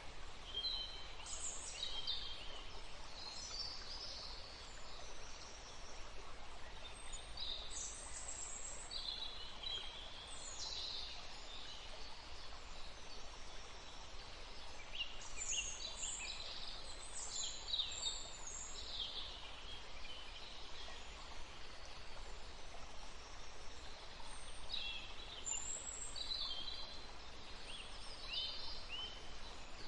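A woodland stream flowing steadily as a soft rushing hiss, with birds singing short, quick, high-pitched phrases in several bursts over it.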